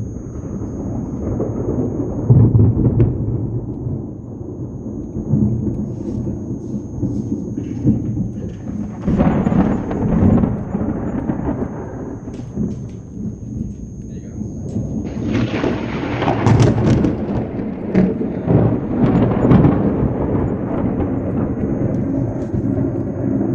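Thunder rumbling in long, rolling waves over falling rain, swelling louder several times.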